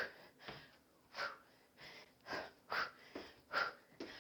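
A person breathing hard during a kickboxing drill, with a series of short, sharp exhales, some about half a second apart and others with longer gaps.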